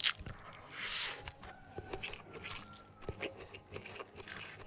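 Close-miked chewing and wet mouth sounds of someone eating rice with crispy fried chicken: scattered small clicks, with a brief rustle about a second in.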